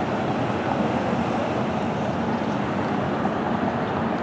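Steady outdoor background rush of wind and street traffic, even throughout with no distinct events.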